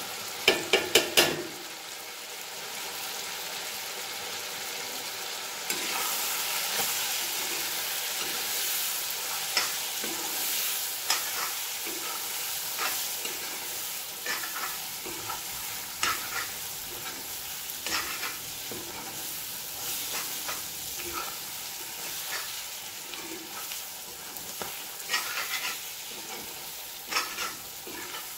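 Chicken and spices frying in a black iron kadai, sizzling, while a spoon stirs and scrapes against the pan every second or so; the sizzle grows louder about six seconds in. About a second in there are four quick sharp taps as spices are tipped into the pan from a steel plate.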